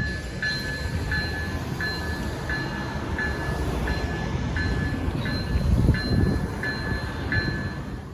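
Railroad grade-crossing bell ringing evenly, about one and a half strokes a second, over the rumble of a passing train that swells about six seconds in.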